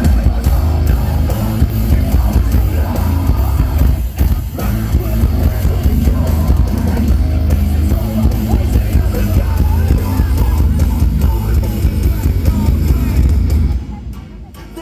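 Live metalcore band with heavy distorted guitars and pounding bass, playing loud through arena speakers. The music drops away briefly near the end.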